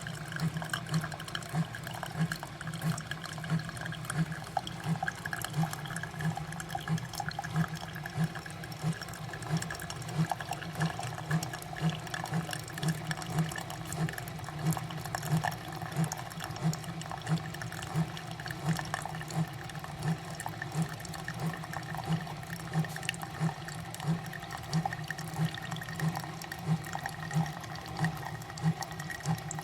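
SIFENE single-serve pod coffee maker brewing: its water pump pulses steadily about twice a second while coffee streams into the cup.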